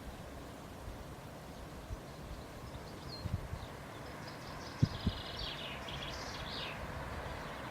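Outdoor trackside background with birds chirping for a couple of seconds in the middle and two short low thumps around the same time.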